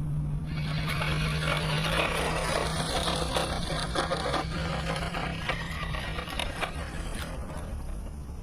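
A 1/18-scale RC crawler driving over rough ground: a steady low motor hum with tyres and chassis scraping and crackling over dirt and debris. The hum stops about six seconds in, while the scraping and clicking go on.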